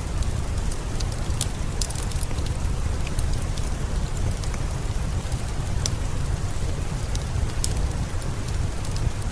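Steady rain with a low rumble, mixed with irregular sharp crackles and pops of a wood fire.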